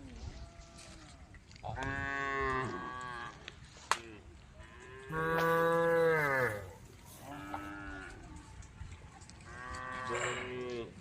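Cows mooing: four drawn-out calls, the longest and loudest about halfway through, its pitch falling at the end. A sharp click sounds between the first and second calls.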